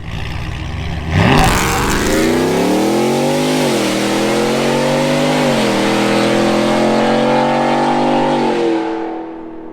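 Supercharged 5.0 L V8 of a Ford F-150 with a Corsa Extreme cat-back exhaust, launching hard from a standstill. The revs climb sharply about a second in, and the pitch drops back at two upshifts before climbing again. The sound falls away near the end.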